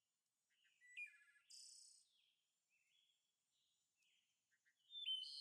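Faint birdsong: short high chirps, quick trills and little gliding calls, loudest about a second in and again near the end.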